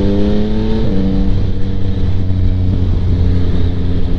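2025 Yamaha MT-09's three-cylinder engine through a Kelpi Flanker exhaust with the baffle in, pulling up through the revs, with a gear change about a second in, then running steady. The exhaust is very loud.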